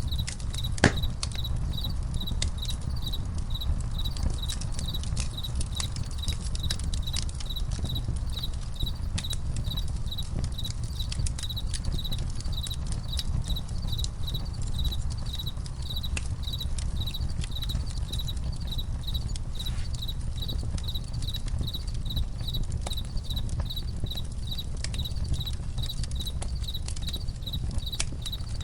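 Campfire crackling, with scattered sharp pops, one loud pop about a second in, over a low steady rumble of the fire. A cricket chirps throughout in a steady, even rhythm.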